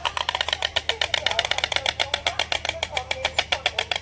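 White stork clattering its bill: a fast, steady run of hard wooden-sounding clacks, about a dozen a second.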